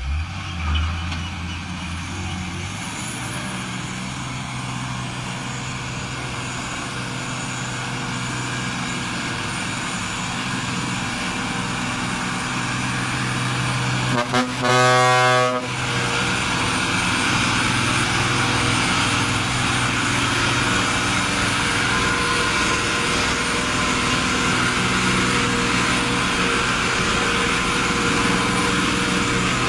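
Isuzu truck's diesel engine running steadily while hauling an excavator. A vehicle horn sounds once, for about a second and a half, about halfway through.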